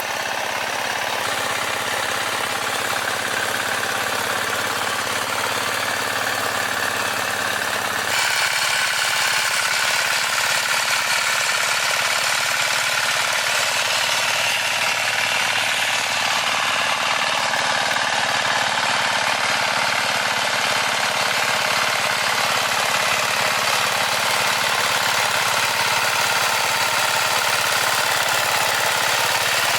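A farm machine's engine running steadily under load. About eight seconds in the sound changes abruptly, with less low rumble and more high noise.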